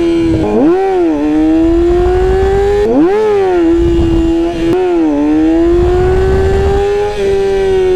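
Sport motorcycle engine pulling in first gear, mostly held steady or slowly climbing, with three quick throttle blips that sweep the revs up and back down about half a second, three and five seconds in, as the rider pops the front wheel up for wheelie practice.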